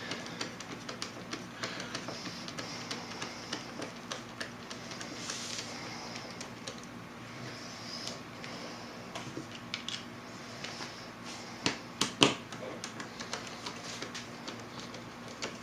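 Screwdriver with a tamper-proof Torx bit backing screws out of a plastic battery-pack case: a run of small, irregular clicks and ticks, with a few louder knocks about twelve seconds in.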